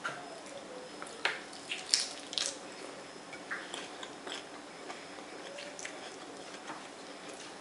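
Mouth chewing a lettuce-wrap taco: irregular crisp crunches and wet mouth clicks, the loudest cluster between one and two and a half seconds in.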